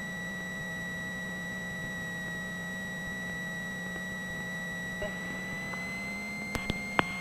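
Steady high-pitched electrical whine in a Cessna 172's cockpit intercom audio over a low steady hum; the whine rises slightly in pitch near the end. A few sharp clicks come just before the end.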